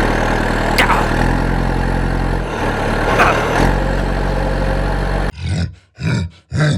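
Tractor engine running steadily, its pitch stepping a little a few times, with two brief squeaks over it. About five seconds in it cuts off abruptly, followed by short separate bursts of sound with gaps between them.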